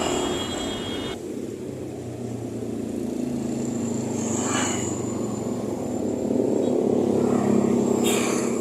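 A vehicle engine running with a steady low hum, with brief higher-pitched bursts about halfway through and near the end.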